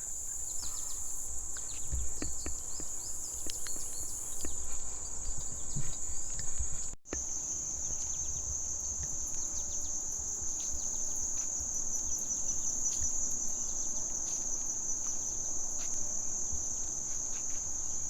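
Steady, high-pitched chorus of forest insects, breaking off for an instant about seven seconds in, with low rumbling and scattered faint clicks underneath.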